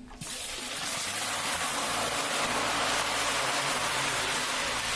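Potato pieces frying in hot vegetable oil in a kazan: a steady, loud sizzle that starts suddenly as they go in and swells over the first second.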